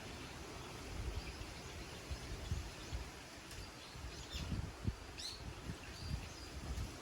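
Autumn wind gusting against the microphone in uneven low rumbles, over a steady outdoor hiss, with a few short bird chirps near the middle.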